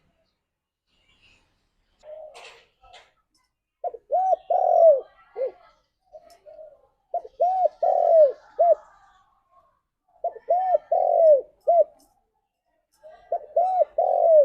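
Spotted dove cooing: four phrases about three seconds apart, each a quick run of short, low, arched coos.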